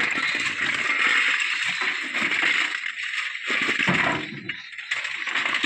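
Loose white stone clattering and grinding as it pours and shifts, a dense rattle of many small stones striking each other and steel, easing briefly a little past halfway.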